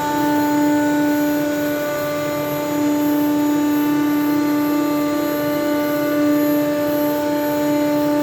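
ShopSabre CNC router spindle running steadily as it cuts King StarBoard HDPE plastic sheet into strips, with the dust collector off. It is a loud, even whine with a slight pulsing over the cutting noise.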